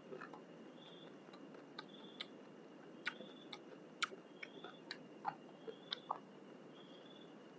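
Eating by hand: irregular sharp wet clicks of chewing and lip-smacking. Behind them a short high chirp repeats about once a second over a steady high trill and a low even hiss.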